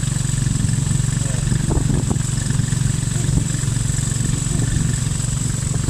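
Motorcycle engine running steadily with an even low hum, as if ridden along at a constant speed.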